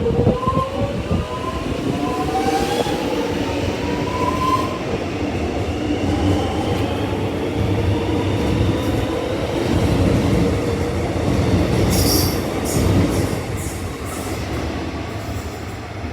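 Electric suburban train running through the station, its traction motors whining in several tones that rise over the first few seconds as it speeds up, over steady wheel and rail noise. Short high-pitched squeals come from the wheels about twelve seconds in.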